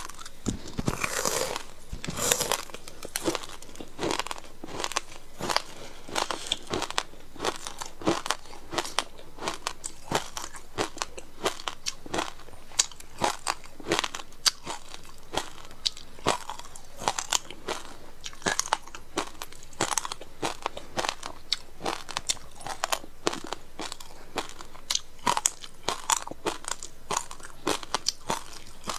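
Frozen passion fruit ice being bitten and chewed close to the microphone: a run of sharp, uneven crunches and crackles, several a second.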